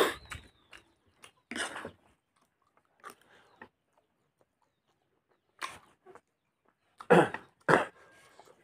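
Close-up sounds of a person eating rice and chicken curry by hand: wet open-mouthed chewing and lip smacking in short bursts with quiet gaps. The loudest pair comes near the end.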